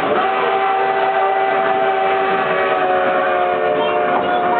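Durango & Silverton narrow-gauge steam locomotive's whistle blowing one long, steady chord of several tones at once, over the noise of the moving train.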